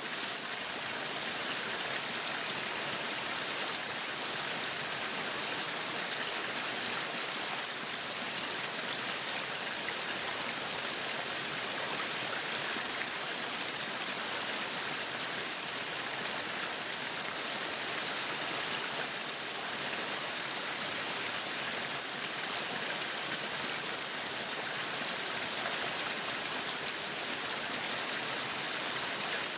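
Meat sizzling on a yakiniku grill: a steady, even hiss.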